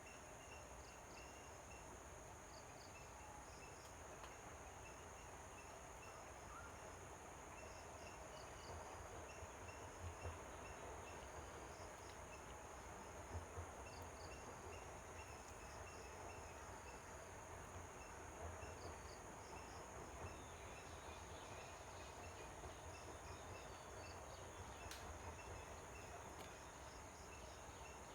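Faint outdoor ambience: insects keep up a steady high-pitched drone, with rows of short, faint chirps repeating over it. A few soft low thumps come in the middle.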